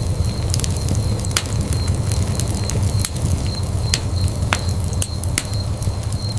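Wood fire burning in a fireplace, a steady low rumble of flames with sharp, irregular crackles and pops, several a second.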